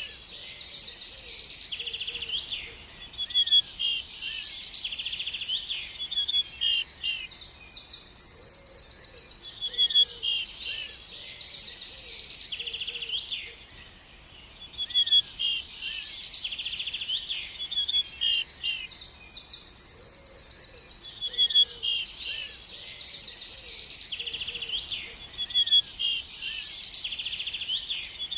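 A songbird singing a long, rapid, high-pitched song of trills, chirps and buzzy runs, with a short pause about halfway through.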